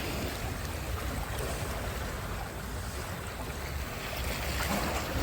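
Sea surf washing onto a beach, a steady hiss of water with wind rumbling on the microphone, easing off in the middle and building again near the end.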